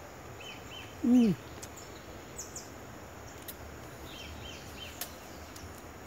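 Faint high bird chirps in two short runs of three or four notes over a steady outdoor background hiss. A person gives one brief falling murmur about a second in.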